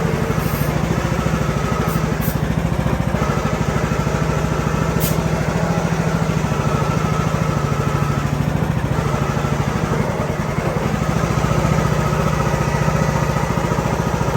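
Craftsman riding mower's Briggs & Stratton 19 hp Platinum engine running steadily with an even, rapid firing pulse.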